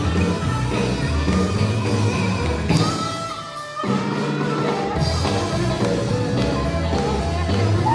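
Live sacred steel gospel band playing, a steel guitar lead over bass and drums. About three seconds in, the bass and drums stop for under a second, then the full band comes back in.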